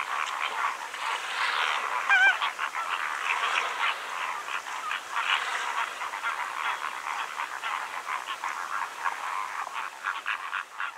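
A flock of flamingos calling, many short calls overlapping in a continuous chatter, with one wavering call about two seconds in.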